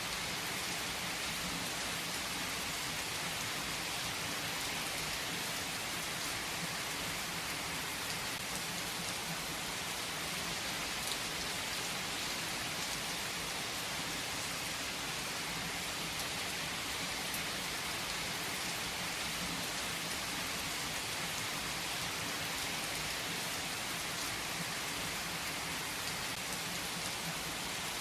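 Steady rain falling, an even hiss with occasional single drops ticking out of it.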